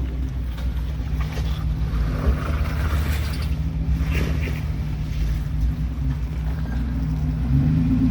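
Jeep engine running steadily at low speed while crawling over rocks, with a few brief noises over it.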